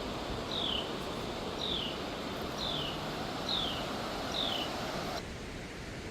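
A bird calling: a high, downslurred whistled note repeated about once a second, six times in all, over a steady rushing background noise. The background drops abruptly near the end.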